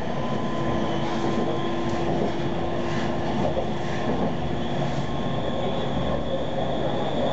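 Tram running along its line: a steady rumble of wheels on rail with a faint held hum through the first few seconds.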